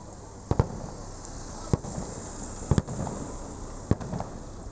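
Aerial fireworks bursting: a string of sharp booms about once a second, two of them coming as quick double bangs, over a steady background rumble.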